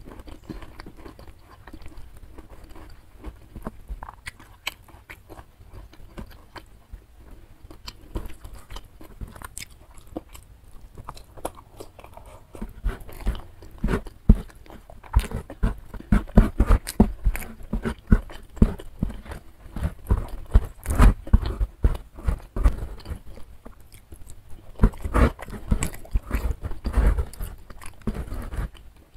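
Close-miked chewing of a mouthful of rice and side dishes, with wet mouth clicks and smacks, getting louder and busier about halfway through. Fingers push and gather rice on a banana leaf between mouthfuls.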